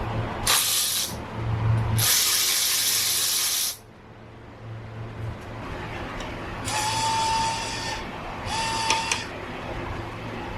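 Power tool run in four short bursts, the first two a harsh whirr and the last two with a steady whine, removing components from a steel bike frame.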